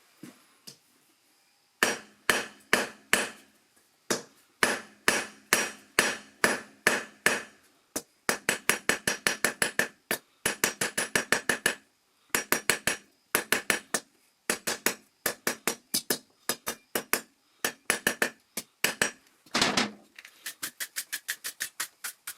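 Hand hammer striking a 10mm round steel bar on an anvil, drawing the end out into a point. The blows come in runs of several with short pauses, each ringing, and near the end a quicker run of lighter taps at about five a second.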